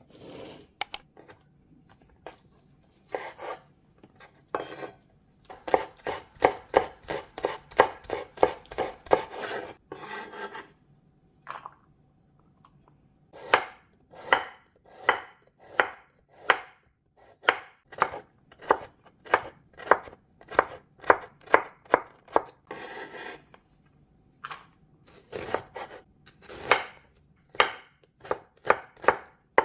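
Kitchen knife chopping food on a cutting board, in runs of sharp, even strokes of about three a second, broken by a couple of short pauses.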